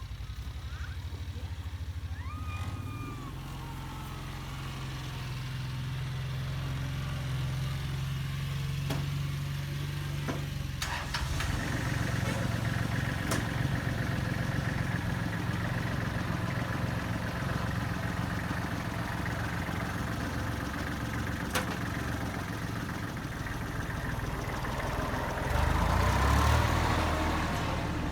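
Kubota L35 tractor-loader-backhoe's diesel engine running steadily. About eleven seconds in it picks up revs under hydraulic load, and it gets louder again near the end. Now and then there is a sharp metallic knock.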